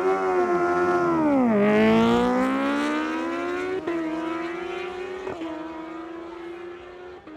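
Superbike engine at full throttle down a drag strip. The pitch climbs, drops sharply at an upshift about one and a half seconds in, then climbs again with two quicker shifts later on. It grows fainter as the bike pulls away.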